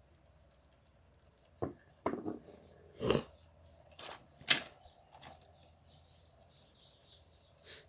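A series of sharp knocks, irregularly spaced, the loudest about four and a half seconds in. Faint high chirping is heard in the second half.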